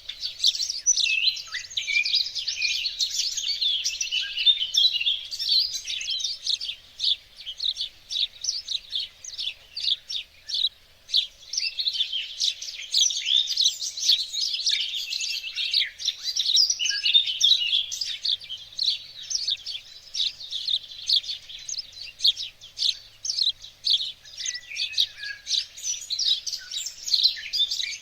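Several small songbirds singing and chirping together in a dense chorus of quick high twitters and trills, thinning briefly in a couple of places.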